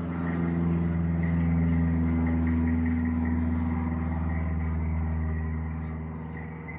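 A passing engine drone, steady and low-pitched, swelling to its loudest about two seconds in and then fading away. Faint bird chirps sound over it.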